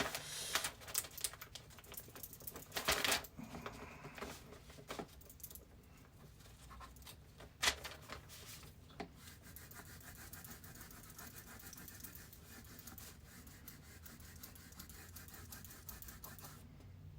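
Faint scratching and rubbing with scattered clicks, mostly in the first few seconds and one sharper click near the middle, then quiet room tone with a low hum.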